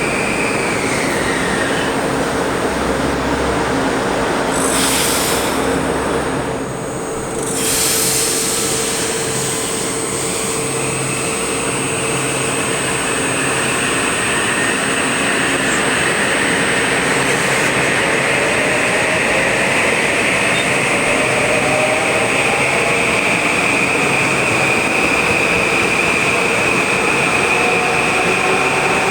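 Electric passenger train running past at speed: a loud, steady rumble of wheels on rail with a motor whine that falls at first and later rises. There is a short dip in loudness about seven seconds in.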